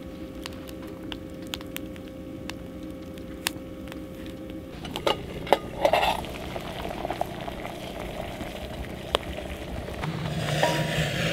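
Food sizzling as it cooks, with sharp pops over a steady hum for the first few seconds. A burst of clattering cookware comes about five seconds in.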